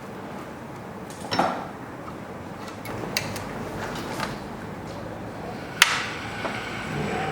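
A few sharp knocks and clinks, one about a second in and the loudest near six seconds, with smaller clicks between, over a steady background hiss.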